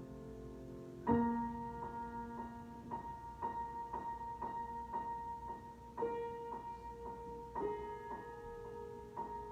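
Solo piano improvisation: a chord struck about a second in, then a high note repeated about twice a second over held lower notes, with the bass notes changing twice near the end.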